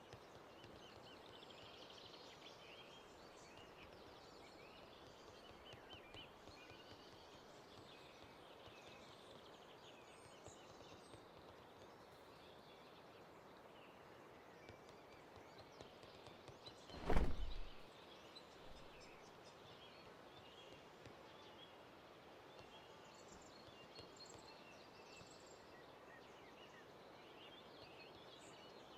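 Faint outdoor ambience with scattered small bird chirps over a steady low hiss. About two-thirds of the way through comes one brief, loud, low thump.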